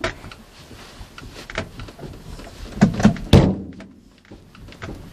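Heavy thunks and knocks on the small car: one at the start, then three close together about three seconds in.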